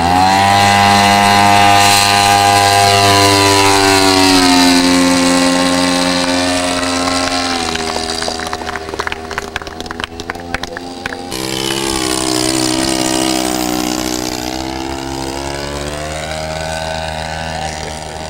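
Radio-controlled model airplane flying past overhead, its motor a steady buzz whose pitch sinks as it goes by. The sound drops away with some crackling about halfway through, then swells back with the pitch rising and falling on another pass.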